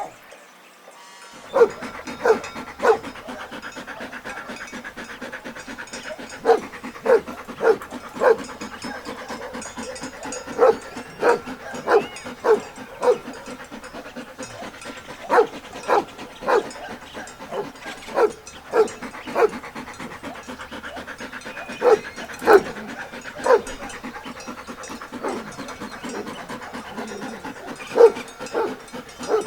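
Dog barking in short single barks, in irregular groups of two to four, over a steady background hiss.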